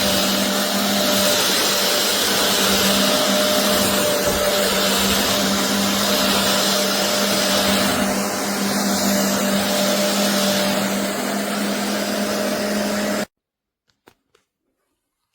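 Carpet cleaner's vacuum motor running steadily with a constant hum, cutting off abruptly about thirteen seconds in.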